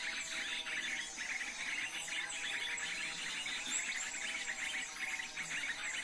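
Dense, rapid chirping and twittering of small songbirds, with thin high whistles that fall in pitch every second or so, over a steady low droning tone.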